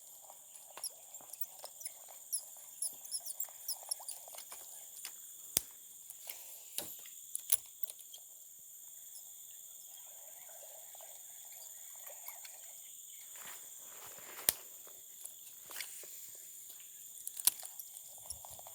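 A steady chorus of chirring insects, with scattered sharp clicks and taps, a few of them loud.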